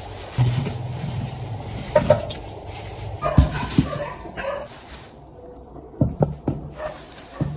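A dog barking a few times in short, separate barks.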